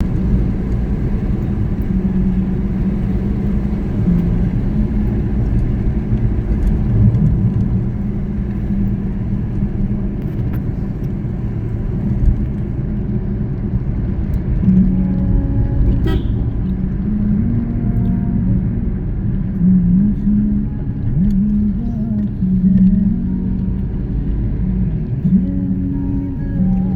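Motor vehicle driving on a road: a steady engine and road rumble, with the engine note stepping up and down as the revs change.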